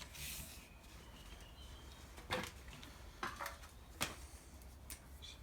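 Faint handling of cardboard held against a steel chassis rail: a brief rustle, then a few scattered light taps and clicks as a finger pokes through the cardboard at the bolt holes.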